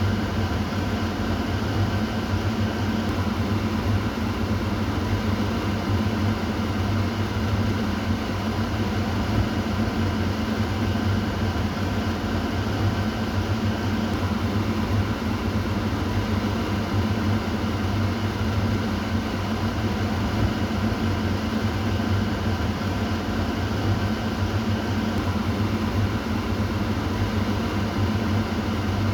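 Kitchen exhaust fan running steadily: a constant motor hum with a low drone and a whooshing rush of air, unchanging throughout.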